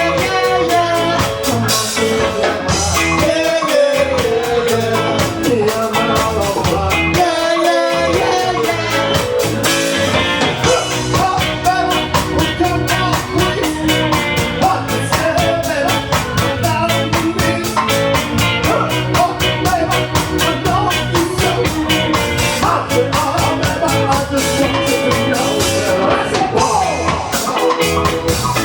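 Live ska band playing a song with singing, guitar and drum kit on an upbeat rhythm.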